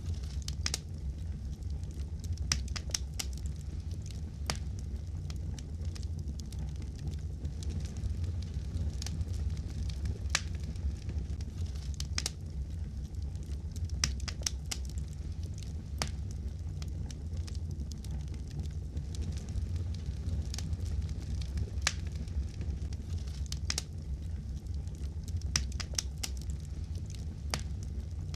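Wood fire crackling and popping in a fireplace: irregular sharp pops a few times a second over a steady low rumble of the burning fire.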